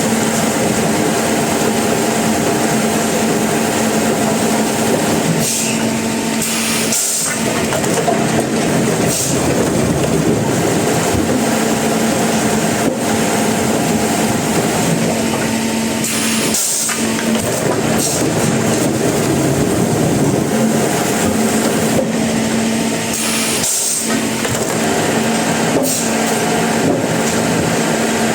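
Sawmill machinery running steadily with a constant hum and a dense grinding noise, dropping briefly three times.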